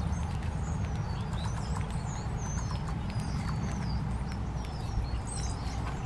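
Small songbirds chirping with many short, high, squeaky calls, over a steady low rumble and a few soft ticks.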